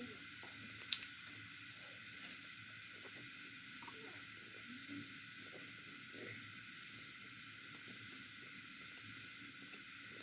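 Insects chirping steadily, about three pulses a second, under faint eating and chewing sounds, with one sharp click about a second in.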